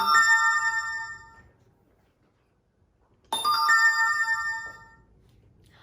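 Two bright chime jingles, each a cluster of ringing tones that fades away over about a second and a half. The second comes about three seconds after the first.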